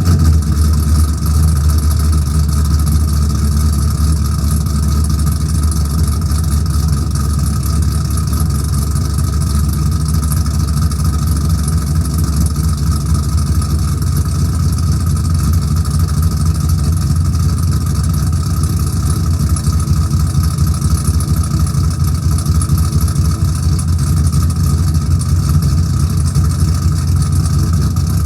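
A 2002 Camaro SS's 5.7-litre LS1 V8, fitted with a stage 3 cam, long-tube headers and an axle-dump exhaust, idling steadily just after a cold start.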